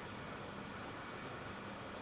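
Steady background hiss with a faint low hum, workbench room tone.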